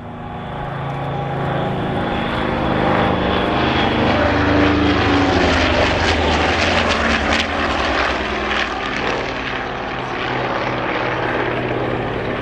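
Douglas AD-4 Skyraider's 2,800 hp Wright R-3350 radial piston engine and propeller flying past on a gear-down, carrier-style approach. The drone grows louder over the first few seconds, holds, then eases off slightly.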